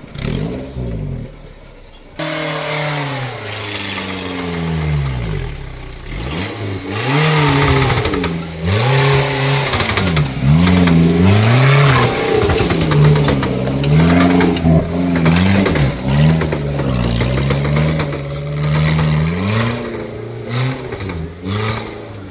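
Off-road vehicle engine revving again and again, its pitch rising and falling as the throttle is worked in mud, louder through the middle stretch after a quieter first couple of seconds.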